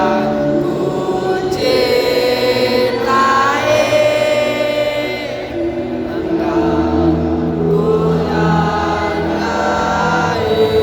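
Many voices singing together in a slow, chant-like song, holding long notes that change pitch every second or two.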